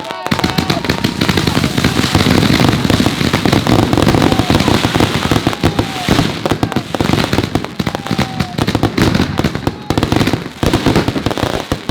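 Rapid, continuous barrage of exploding consumer fireworks, many sharp bangs a second overlapping with no real gaps, densest in the first half.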